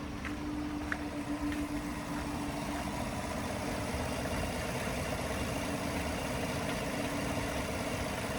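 2016 Chevrolet 1500 pickup's engine idling steadily, a little fuller about two to three seconds in.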